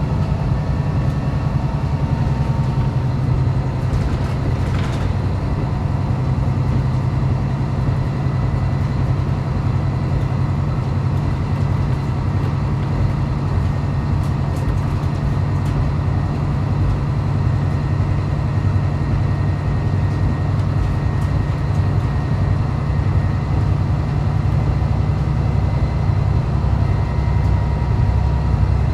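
Running sound inside a diesel railcar on the move: a steady low engine drone with rolling wheel and rail noise and a few faint clicks.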